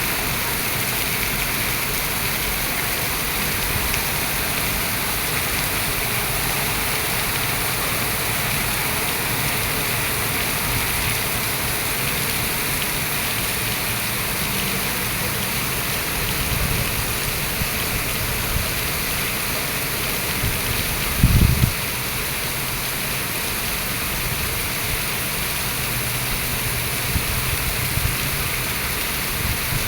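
Rain falling steadily, an even hiss, with a single short low thump about two-thirds of the way through.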